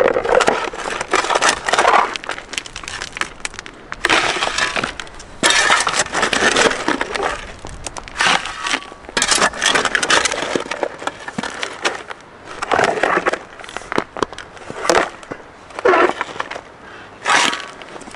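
Shovel digging into coarse river gravel and stones: repeated, irregular scraping and clattering strokes.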